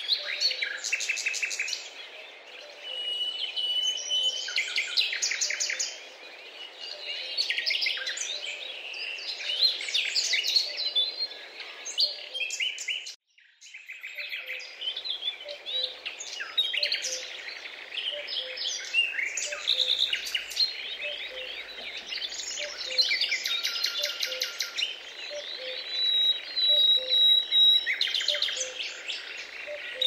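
Many birds chirping and singing at once in a dense, overlapping chorus of short trills and whistled notes. The sound cuts out briefly about 13 seconds in, then resumes.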